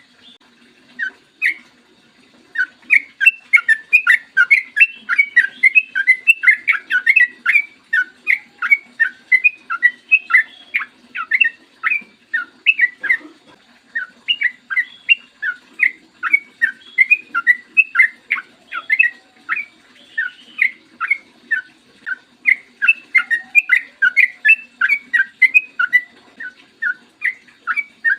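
Yellow-vented bulbul (trucukan) singing a long, fast run of clear, bubbly notes, about four or five a second, with short breaks near the start and about halfway through.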